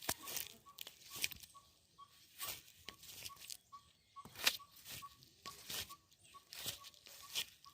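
A small animal chirping: short high chirps repeating evenly about twice a second, with irregular crackles and rustles over them.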